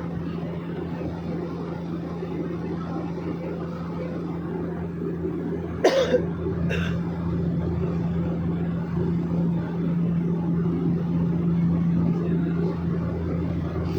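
Steady engine and propeller drone of a small private airplane, heard from inside the cabin, getting a little louder in the second half. Two brief sharp noises stand out about six seconds in, less than a second apart.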